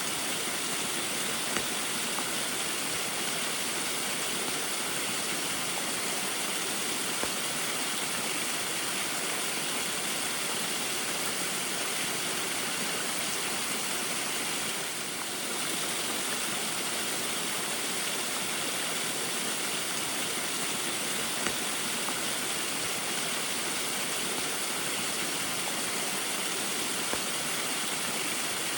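Small waterfall running steadily in the rain, a continuous rush of water, with a brief slight drop in level about halfway through.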